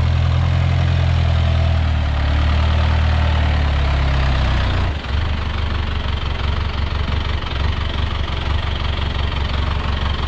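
Off-road 4x4's engine running at low revs with a steady low hum. About five seconds in, the sound changes to a rougher, uneven rumble.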